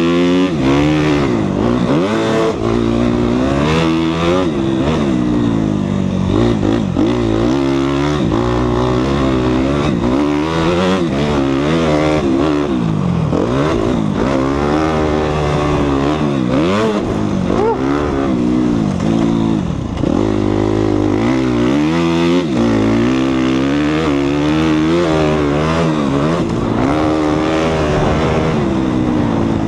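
2014 Suzuki RM-Z250 single-cylinder four-stroke motocross bike engine revving up and down continuously as it is ridden around a deep-sand track, the pitch rising and falling every second or two through throttle changes.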